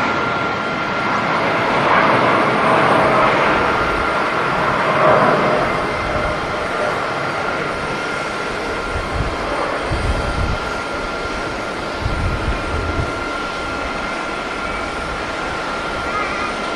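Jet airliner engines running, a steady rushing noise with a thin high whine, swelling a couple of seconds in. From about halfway through, gusts of strong wind buffet the microphone with low rumbles.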